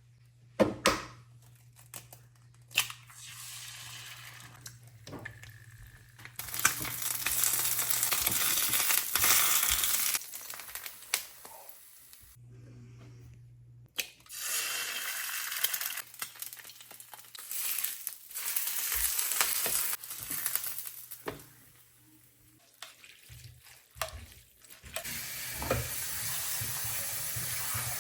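Kitchen cooking sounds: hissing in three long spells that start and stop sharply, with clicks and knocks of utensils and pans in between.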